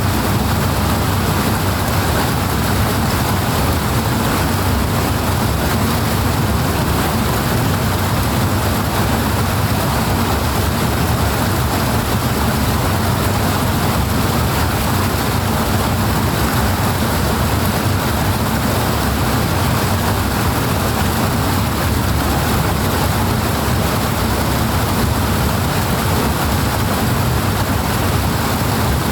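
Powerful rushing water: a steady, unbroken noise, heaviest in the low end.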